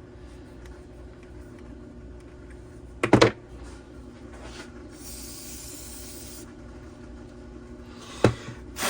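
A short spray hiss, lasting about a second and a half, about halfway through, over a steady low hum. There is a brief loud noise about three seconds in and a sharp click near the end.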